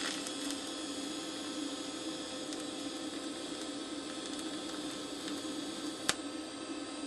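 TIG welding arc running steadily: an even hiss over a low hum, with one sharp click about six seconds in.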